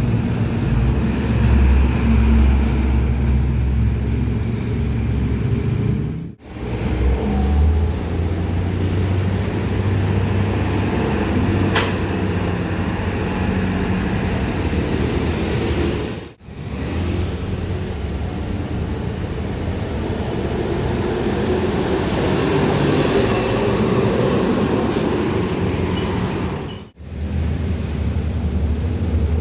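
Heavy trucks driving past on a road: diesel engine rumble and road noise, in separate clips joined by abrupt cuts about six, sixteen and twenty-seven seconds in.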